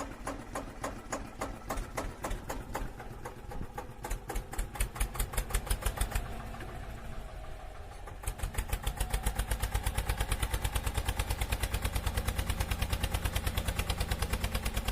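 A small motor running with a fast, even beat of pulses, uneven for the first few seconds and then steadier and quicker from about eight seconds in.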